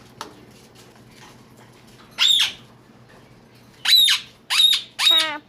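Pet bird giving four loud, short squawks: one about two seconds in, then three in quick succession near the end.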